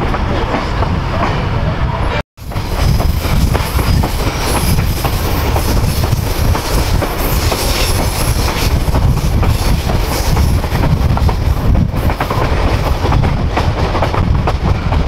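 Ride noise of a moving passenger train heard from an open coach window: a steady wheel-and-rail rumble with clicking over the rail joints. The sound drops out for a moment about two seconds in.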